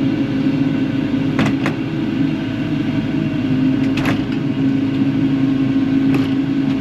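Kubota KX080-4 excavator's diesel engine running steadily, its hum rising a little about halfway through, with a few short sharp clicks or knocks.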